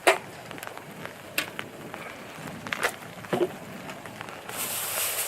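Wood fire crackling in a campfire fire pit, with four sharp pops over a low hiss. Near the end a louder hiss sets in and stops suddenly.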